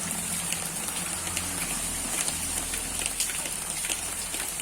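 Rain falling steadily: an even hiss with many small drop hits.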